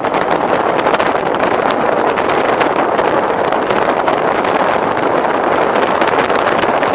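Steady, loud wind rushing over the microphone of a camera carried on a moving bicycle.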